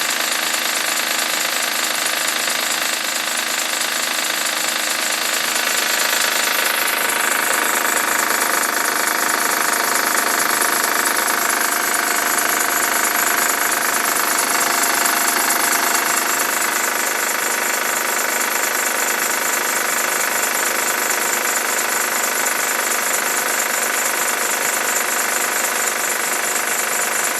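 2007 Honda Pilot's 3.5-litre V6 idling after a cold start, with a fast rhythmic rattle that the owner places near the timing belt. The rattle is fading as the engine warms up.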